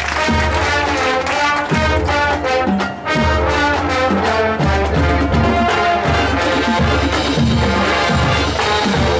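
Marching band playing: brass sections sounding held chords over a steady beat of low drum hits, with a short drop in volume about three seconds in.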